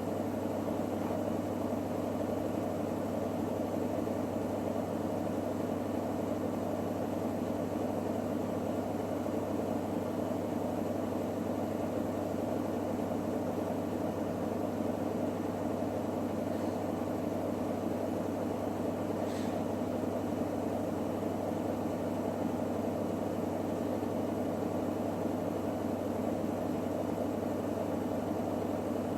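Electrolux WD41A84160 washing machine spinning its drum at a steady speed: an unbroken motor hum and drum whir that holds the same pitch throughout.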